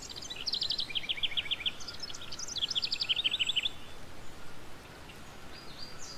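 A small bird chirping in two quick trills, each a fast run of short chirps that falls in pitch over about a second and a half, then only faint chirps.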